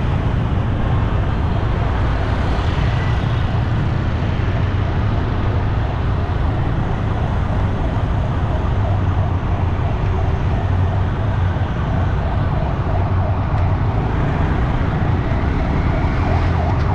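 Steady city road traffic noise with a low engine rumble. A siren faintly rises in pitch near the end.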